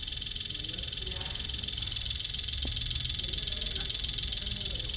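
Rapid, even ticking of the injector outputs on an ECU test bench, driven by an Ashok Leyland MD1 engine ECM at a simulated 841 rpm idle, with three injectors pulsing: the sign that the ECM is firing the injectors.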